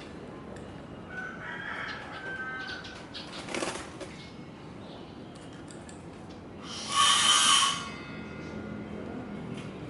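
A rooster crowing once, about seven seconds in, lasting about a second: the loudest sound. Fainter short sounds come before it, among them a sharp click a little after three seconds in.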